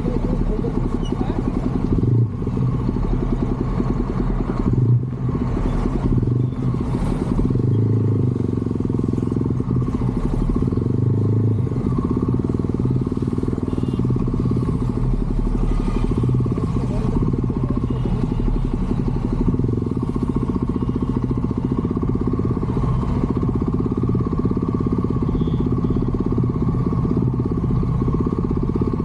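Motorcycle engine running on the move, a steady low exhaust beat, with the note swelling several times in the first twelve seconds or so.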